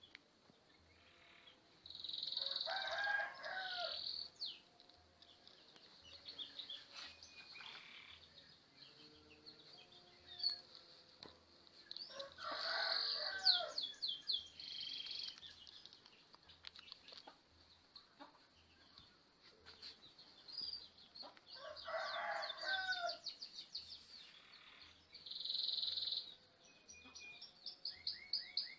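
A rooster crowing three times, about ten seconds apart, with quick high-pitched chirps and trills from small birds in between.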